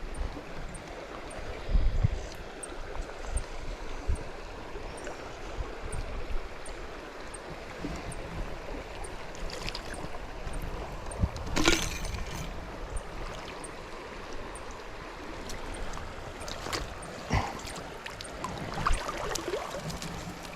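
Small trout stream running steadily over riffles. A few sharp knocks cut through it, the loudest about halfway through, and a faint high tick repeats about twice a second.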